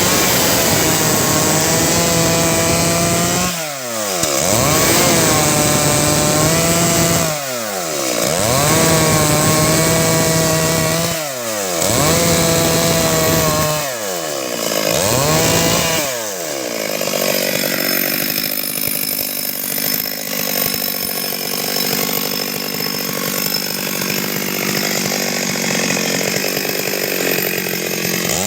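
Stihl 382 two-stroke chainsaw running hard through wood. Through the first half the revs dip sharply and climb back about every three to four seconds, then settle into a steadier, rougher sound for the rest.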